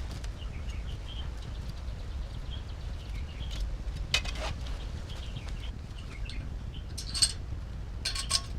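Birds chirping faintly and intermittently over a steady low rumble, with a few sharp clicks or clinks about four seconds in and twice more near the end.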